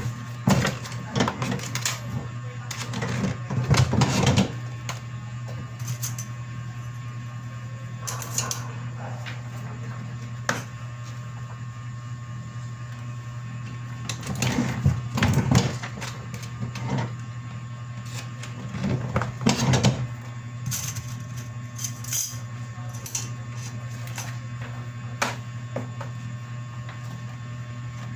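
A printer running, with a steady low hum and irregular bursts of clattering and feed noise.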